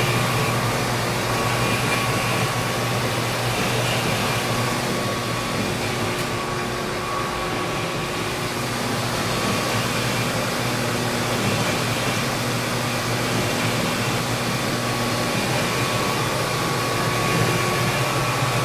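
Machine tool running steadily while boring a fiberglass stern tube, a continuous hum with a few fixed tones under the noise of the cutter working the fiberglass.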